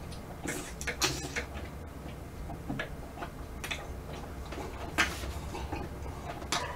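Close-miked chewing and mouth sounds of eating chalddeok ice (rice-cake-wrapped ice cream) and vanilla ice cream: irregular wet smacks and clicks, the sharpest about one second in and again about five seconds in.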